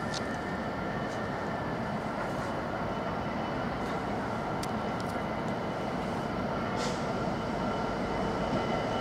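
Steady hum and whine of electric trains at a station platform, with a few faint ticks, growing slightly louder near the end as a train approaches.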